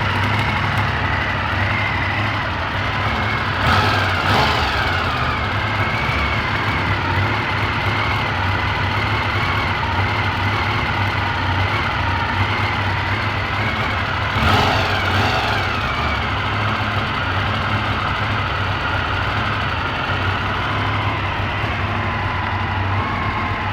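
Honda VFR400R NC21's V4 engine idling with a strange exhaust noise, which the owner puts down to a failed exhaust O-ring. The revs rise briefly and fall back twice, about four seconds in and again about ten seconds later.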